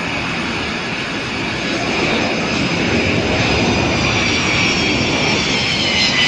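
Aircraft engine running as a plane flies by, a steady rushing noise that grows louder. Near the end, a high whine slides slightly down in pitch.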